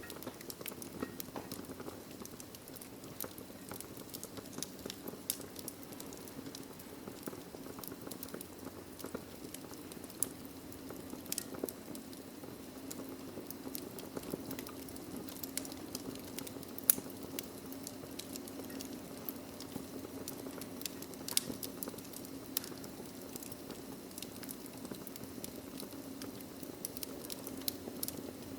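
Wood logs burning in a fireplace, crackling: a steady low rush of flame under frequent sharp pops and snaps, with one louder pop about seventeen seconds in.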